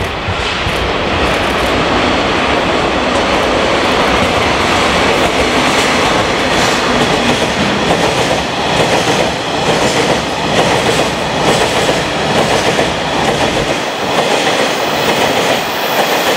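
A DD51 diesel locomotive passes hauling a freight train of tank wagons, and the wagons roll by close at hand, their wheels making a repeated clickety-clack over the rail joints.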